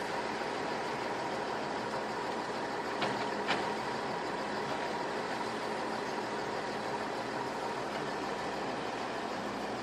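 A machine running steadily, with two short knocks about three seconds in.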